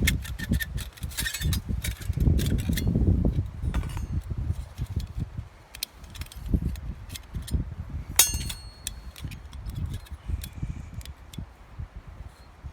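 Small stainless steel fire pit being handled: scattered clinks and knocks of thin metal parts, with one ringing metallic clink about eight seconds in, over low rustling handling noise.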